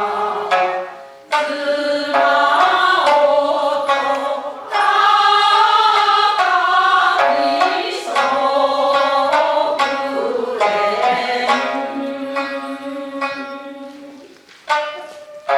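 Japanese min'yō folk music: sharp shamisen plucks under a long-held, wavering melody line, with two brief pauses in the phrasing.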